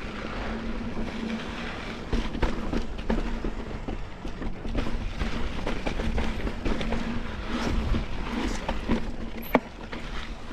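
Mountain bike riding over slickrock: tyres rolling and the bike rattling and knocking over bumps and small drops, with wind on the microphone. One sharp click near the end.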